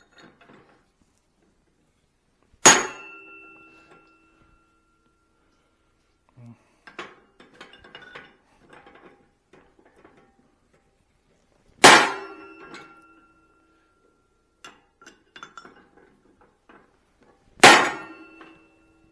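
Three separate heavy blows of a blacksmith's hammer on steel at the anvil, the first about three seconds in, then near the middle and near the end. Each leaves the steel ringing with a clear metallic tone that fades over a second or two. Lighter clinks and rattles of tools and steel come in between.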